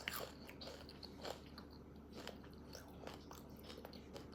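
Mouth chewing crunchy Takis rolled tortilla chips: faint, irregular crunches and clicks.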